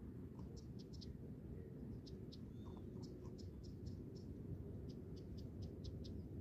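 Dogs crunching dry kibble close by, a string of short, crisp, irregular crunches. Underneath is a steady low rumble.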